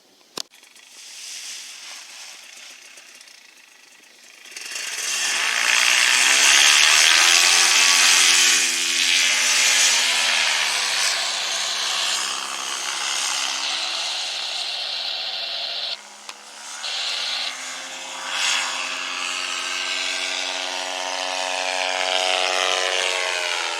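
A small engine running hard, coming up loud about four and a half seconds in, its pitch sagging and rising again as the revs change, with a brief drop in level about two-thirds of the way through.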